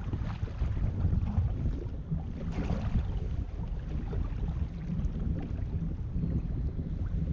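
Wind buffeting the microphone in a steady low rumble, with a brief louder rush about two and a half seconds in.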